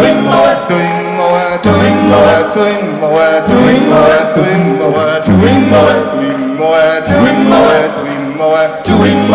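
Male vocal group singing a sea shanty in close harmony, with a deep bass line under the upper voices.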